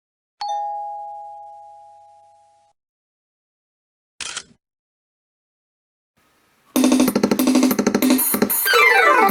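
Yamaha PSR-47 portable keyboard: a single chime-like note that fades away over about two seconds, then a short noisy hit, then from about seven seconds in a loud drum-and-accompaniment pattern with a quick falling run of notes near the end.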